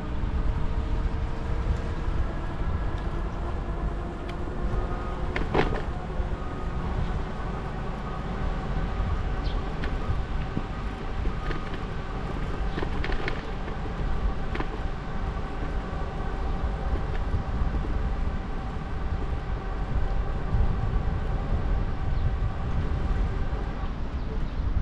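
Riding noise on a moving bicycle: a steady low rumble of wind and tyres on the microphone, with a steady whine of several tones over it and a few sharp clicks about five seconds in and again around thirteen to fifteen seconds in.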